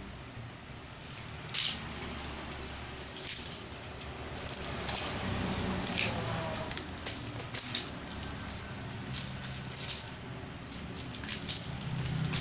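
Irregular rustling and light clicks of objects being handled, with a sharper click about a second and a half in.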